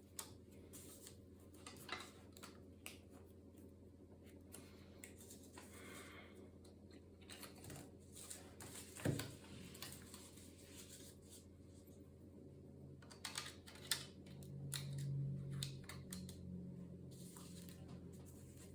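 Faint, scattered clicks and light taps of a laptop being handled, with one sharper knock about nine seconds in, over a low steady hum.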